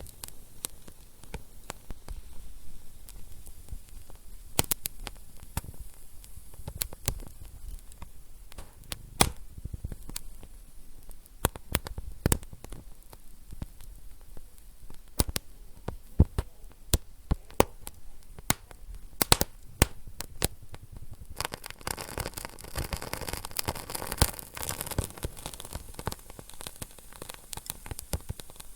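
Wood fire burning in a fireplace, crackling with frequent sharp pops and snaps over a low hiss. About three-quarters of the way through, a louder, steady hiss rises under the crackles.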